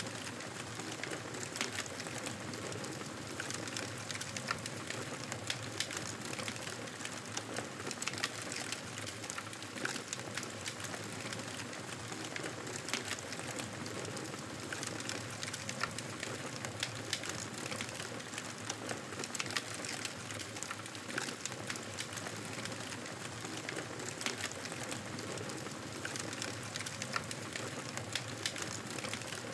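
Campfire burning: a steady hiss with frequent small crackles and pops from the wood.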